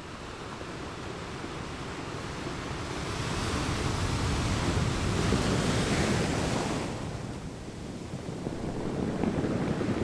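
Ocean waves breaking on rocks: a wash of surf that swells over the first few seconds, peaks in the middle, falls away about seven seconds in, then builds again with the next wave near the end.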